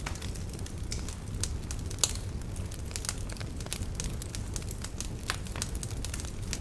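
Log fire burning in a fireplace, crackling with irregular sharp pops and snaps over a low steady rumble of the flames; one louder pop comes about two seconds in.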